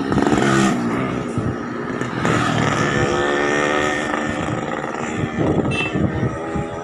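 Heavy vehicle engine running, its pitch shifting slowly up and down.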